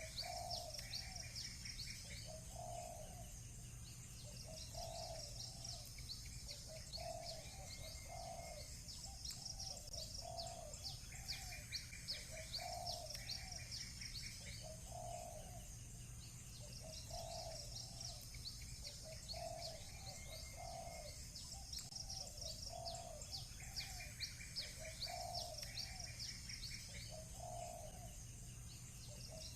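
Doves cooing, one low coo every second or so, over small birds chirping in quick high runs and short bursts, with a faint steady low hum underneath.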